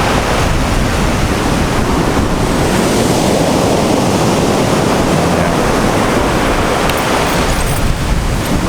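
Wind buffeting the microphone over the steady wash of sea surf on the shore.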